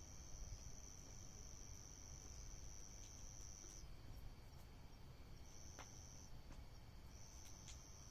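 A cricket's high, steady trill. It breaks off about halfway through, returns briefly, then starts again near the end, over a faint low rumble with a few faint ticks.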